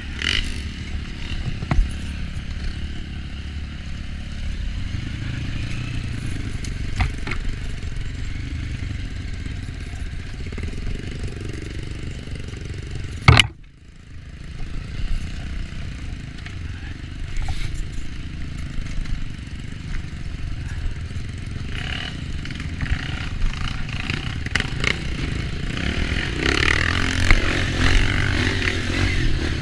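Off-road trail motorcycle engine running at low revs over rough ground, with clattering from the bike. A single sharp knock comes about halfway through, followed by a brief drop in the sound.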